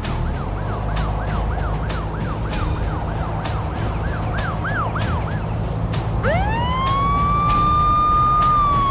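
Cartoon police car siren: quick rising-and-falling yelps, about two and a half a second, for the first five seconds, then a single wail that winds up about six seconds in, holds, and starts to fall near the end, over a steady low engine hum.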